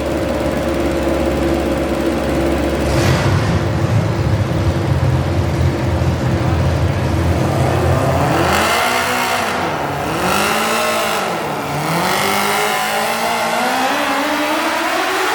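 Garden pulling tractor engine running with a low, steady rumble. About halfway through, it revs up and down a few times, then climbs steadily in pitch as it is throttled up.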